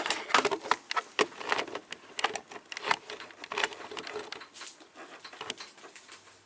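Close-up clatter of hard objects being handled right beside the microphone: a quick, irregular run of clicks, taps and knocks, sharpest at the very start.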